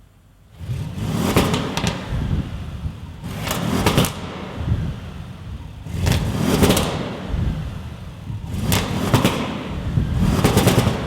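Audi RS7 Sportback's twin-turbo V8 being revved while standing, about five blips of the throttle spaced a couple of seconds apart, dropping back to idle between each.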